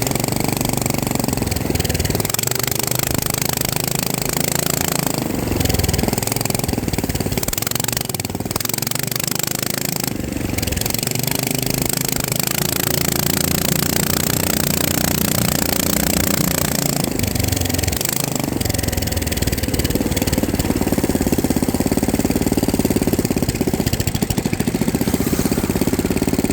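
FPV racing drone's electric motors and propellers buzzing steadily, the pitch shifting up and down as the throttle changes.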